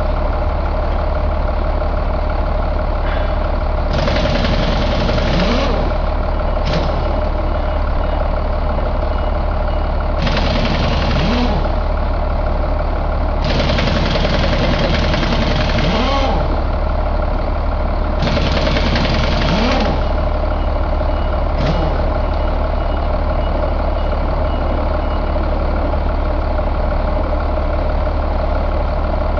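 Caterpillar 3116 inline-six turbo diesel engine running steadily, with several stretches of added hiss lasting one to three seconds each.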